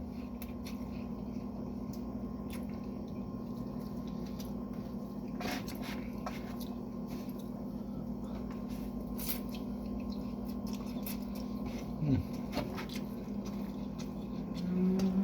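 Soft, wet eating sounds of someone eating a meal: a few scattered clicks and squishes over a steady low hum.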